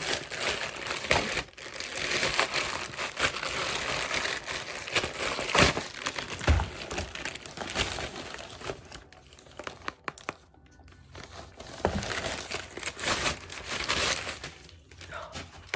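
Packaging crinkling and tearing as a parcel is opened by hand, in a dense run of rustles and sharp crackles with a quieter pause about two thirds of the way through.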